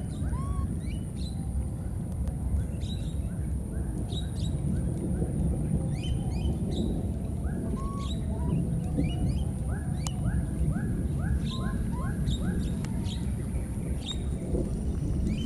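Birds chirping, with many short high calls and whistled upsweeps, and a run of about six quick repeated notes around the middle, over a steady low rumble.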